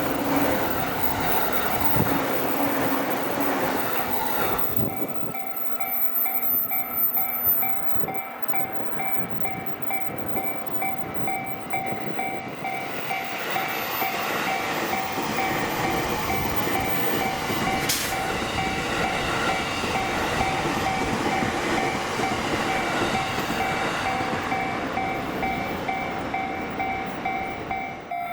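Trains running over a multi-track Japanese level crossing. From about five seconds in, the crossing's warning bell rings over and over.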